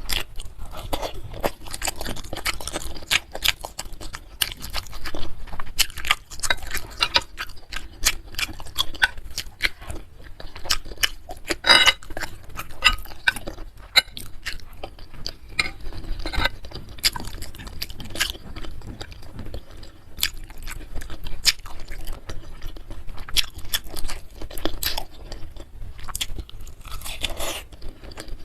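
Close-miked mouth sounds of a person eating: steady chewing with many quick, irregular wet smacks and crunches.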